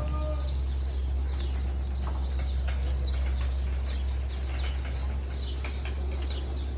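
A loft full of racing pigeons calling, with many short high chirps scattered throughout over a steady low hum.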